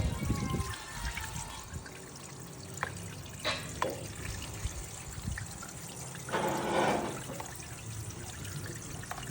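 Water trickling and pouring, with a few light clicks and a brief louder rush of water about six and a half seconds in.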